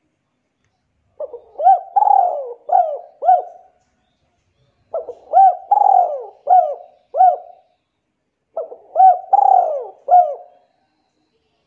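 A bird calling in three repeated phrases. Each phrase is four or five short notes that rise and fall in pitch, with about a second of silence between phrases.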